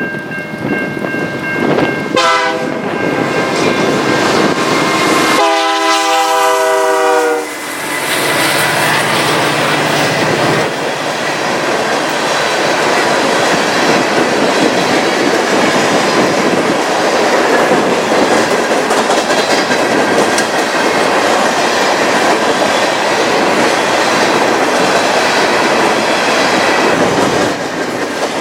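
Diesel locomotive horn sounding: a short blast about two seconds in and a longer chord-like blast around six seconds in. After that comes the steady rumble and clickety-clack of a train's wheels rolling past.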